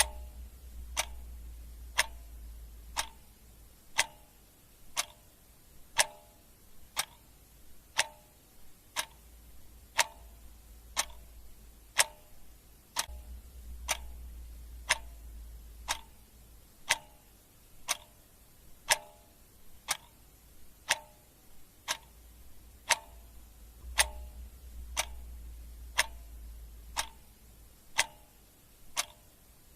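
Clock ticking steadily once a second, each tick a sharp click.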